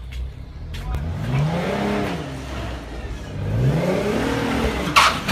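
Porsche Cayenne SUV engine revving up and falling back twice, each rise and fall lasting a couple of seconds, as the car is driven at an awkward angle on a slope. A brief sharp sound comes near the end.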